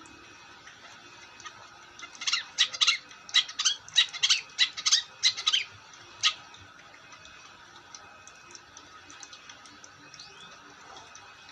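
Long-tailed shrike (cendet) calling: a quick run of loud, sharp calls, about three or four a second, lasting some four seconds, then only faint chirps.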